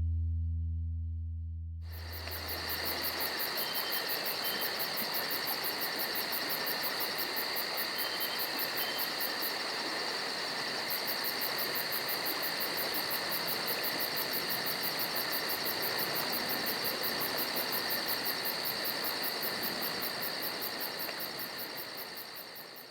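The last low note of the music dies away, then a steady chorus of chirring insects with a fast, even pulse begins about two seconds in and fades out at the end.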